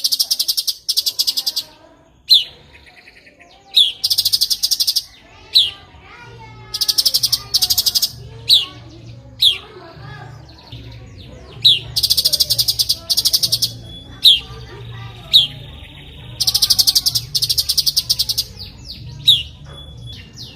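Cucak cungkok songbird calling: sharp down-slurred notes again and again, many followed by about a second of fast, buzzy high-pitched rattling. A steady low hum comes in about six seconds in.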